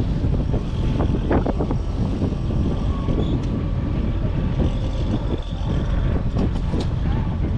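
Fishing boat running through rough, windy water: a steady motor drone under heavy wind buffeting on the microphone, with irregular knocks of waves against the hull.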